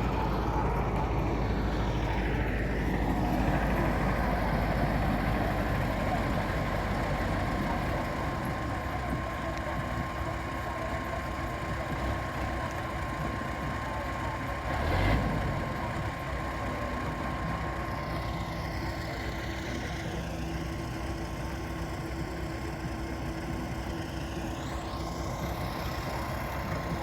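MTZ (Belarus) tractor's diesel engine running steadily, its pitch rising and falling a few times, with a single thump about halfway through.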